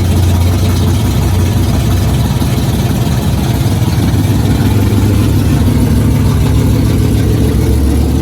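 1973 Dodge Challenger's freshly rebuilt 440 big-block V8 running loud and steady on its first start after new heads, its idle rising slightly about four seconds in. The ignition timing is not yet right, as the crew judges after this run.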